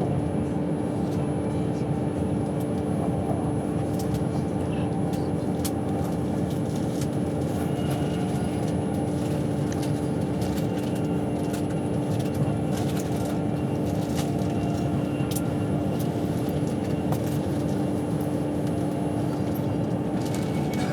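Cabin noise inside a moving passenger train: a steady rumble of wheels on track with a constant low hum. Faint scattered ticks run through it.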